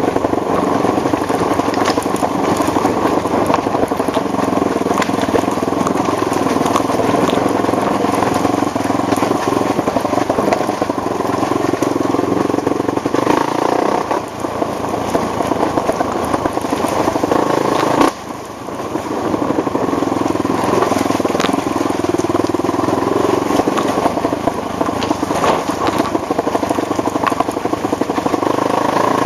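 ATV engine running under throttle on a trail ride, with rough crackling noise over it. The engine note drops off briefly twice about halfway through, the second time sharply, then picks up again.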